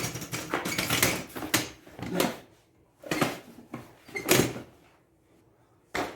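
Irregular clunks, scrapes and rattles of hard objects being handled and moved, in two bursts with a pause between.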